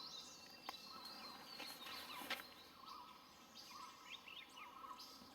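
Faint birdsong from several small forest birds: thin high chirps and whistles, with a lower wavering phrase repeated through the middle, and a few brief sharp ticks.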